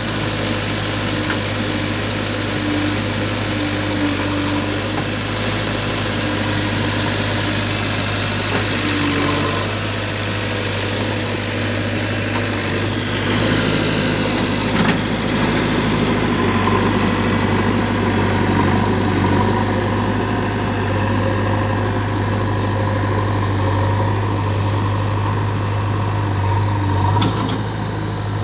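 Heavy diesel engine running steadily near idle, with a few short knocks.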